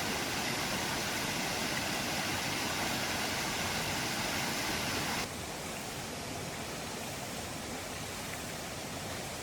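A steady rushing hiss that drops sharply in level about five seconds in.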